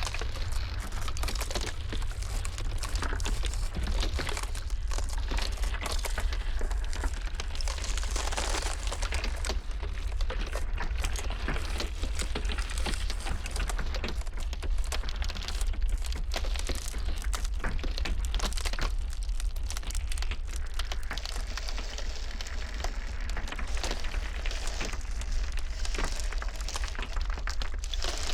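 Ice cracking and crackling, a dense, irregular stream of small sharp cracks and pops over a steady low rumble.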